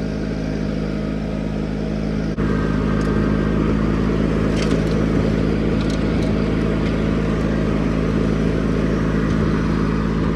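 John Deere 420 garden tractor engine running steadily with its front-mounted snowblower working snow. About two seconds in there is a brief click, after which it runs louder and rougher, with a few faint sharp ticks after that.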